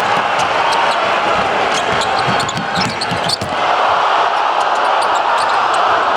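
A basketball being dribbled on a hardwood court, with a quick run of bounces around the middle, over the steady noise of an arena crowd.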